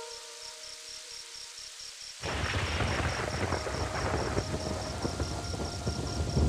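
A sudden crack of thunder about two seconds in, rolling on as a deep rumble with heavy rain, after a few seconds of soft held music.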